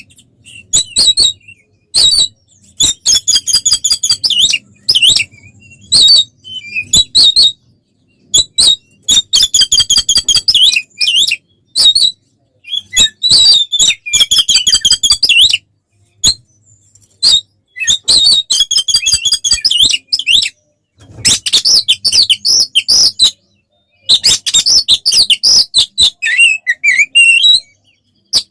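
Oriental magpie-robin (kacer) singing a loud, agitated fighting song. It comes in phrases of fast, repeated high notes and sharp clicks, broken by short pauses of about a second.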